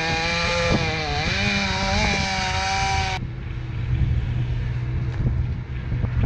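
Engine running with its pitch dipping and rising. About three seconds in it cuts abruptly to a steadier, lower engine hum.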